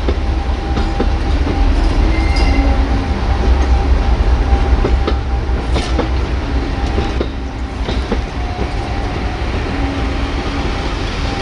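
Heritage passenger coaches rolling past: a steady low rumble of wheels on the track, with scattered clicks over the rail joints and thin squealing tones that come and go.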